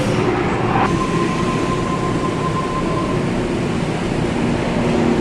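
Sydney electric suburban train running through the station, a steady rumble with a thin high whine for about two seconds.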